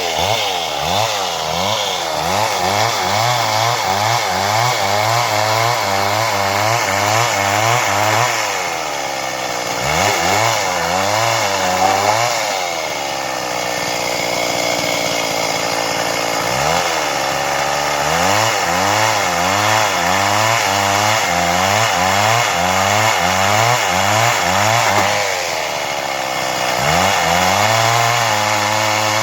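Stihl MS 382 two-stroke chainsaw running under load while ripping through wood. The engine speed wavers up and down as the chain bites, easing to a lower, steadier note for a few seconds midway before taking load again.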